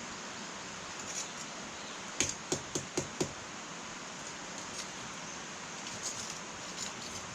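Wood fire burning in an irori sunken hearth with a steady hiss. About two seconds in comes a quick run of about five sharp pops and crackles, and a few fainter crackles follow later.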